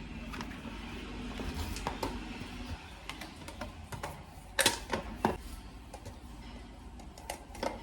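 Quiet handling sounds from packing vegetables for the fridge, with a few short sharp clicks and knocks about halfway through.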